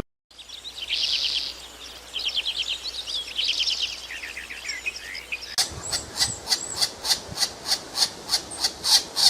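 Birdsong: rapid trilled phrases for about five seconds, then a short high chirp repeated steadily, about three times a second.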